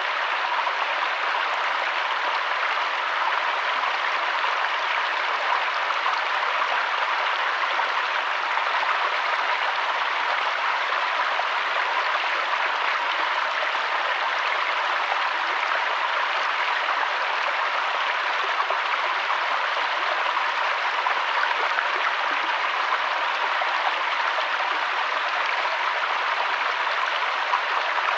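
River water flowing over stones, a steady rushing and babbling with no changes.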